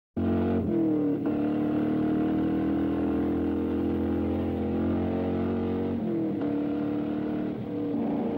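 Car engine starting up suddenly and running steadily at high revs, its pitch dropping briefly near the start and again about six seconds in.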